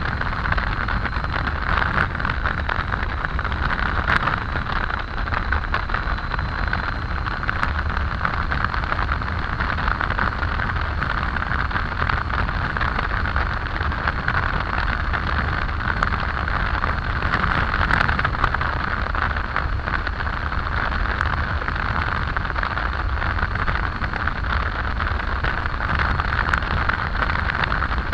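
Steady wind rush and road noise from a Triumph Tiger 800 motorcycle riding at steady road speed, with a low rumble underneath.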